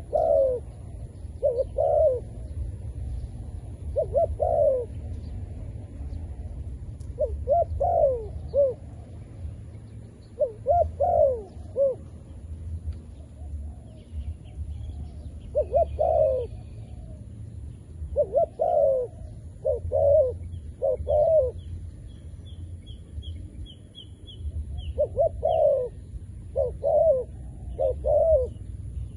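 Zebra dove cooing: a decoy dove's call used to lure wild doves, given as short groups of quick, soft notes every second or two with brief pauses between. A faint run of high chirps from a small bird comes in about two-thirds of the way through, over a low rumble.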